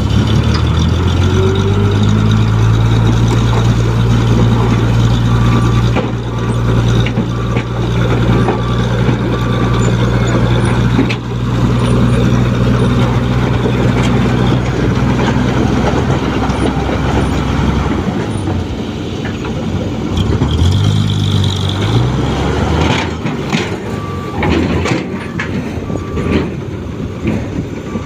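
Diesel dump truck engine running with a steady low drone, which drops away about two-thirds of the way through and then revs up briefly. Short repeated reversing beeps sound twice in runs, with a few sharp knocks near the end.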